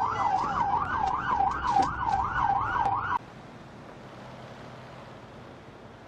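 Emergency vehicle siren on a fast yelp, its pitch sweeping up and down about three times a second. It cuts off suddenly about three seconds in, leaving a steady, quieter hiss of wind or road noise.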